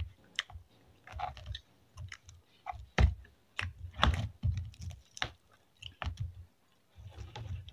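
A person chewing fried chicken and rice eaten by hand, with irregular sharp clicks and soft low thumps.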